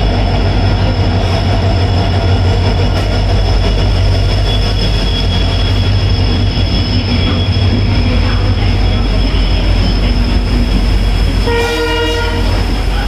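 Passenger train coaches running past close by, a loud steady rumble of wheels on rail. Near the end a train horn sounds for about a second.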